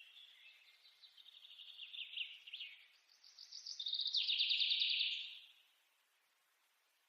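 A bird singing in rapid high-pitched trills, building up and growing louder, then stopping about five and a half seconds in.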